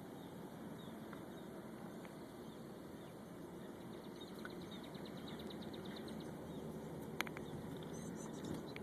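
Steady low outdoor rumble, with a rapid high trill from a bird running a couple of seconds from about four seconds in, and a single sharp click about seven seconds in.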